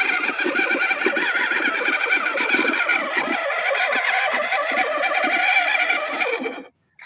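Tractor engine running with a rapid, even pulsing beat and a steady higher whine; it cuts off abruptly near the end.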